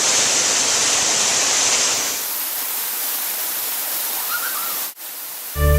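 Waterfall pouring, a steady rushing roar of water. Its character changes abruptly about two seconds in, and it cuts out just before plucked guitar music starts near the end.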